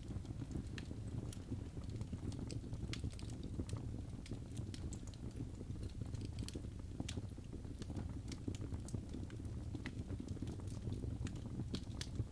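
Wood fire burning in a fireplace: a steady low rumble of flame with irregular small crackles and pops from the burning logs.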